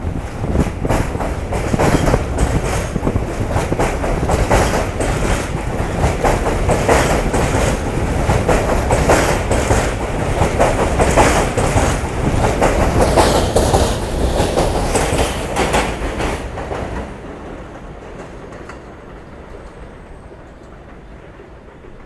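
New York City subway F train running through the station, its wheels clacking in quick rhythm over the rail joints above a steady rumble. The sound falls away about three-quarters of the way through as the train moves off.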